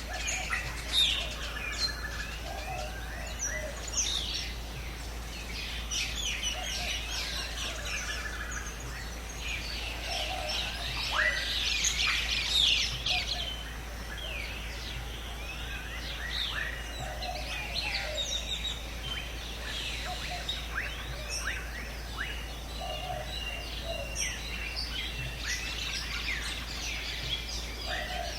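A dense chorus of many wild birds chirping and calling over each other, busiest about halfway through. A lower, short call recurs every few seconds beneath the chirping.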